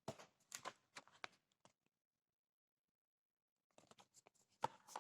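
Near silence: room tone with a few faint clicks and taps near the start and again near the end.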